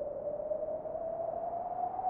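A single electronic tone, held and slowly rising in pitch, over a faint hiss.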